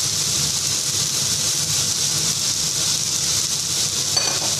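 Steady sizzling of rice and vegetables frying in a hot wok, over a low steady hum. A brief clink near the end.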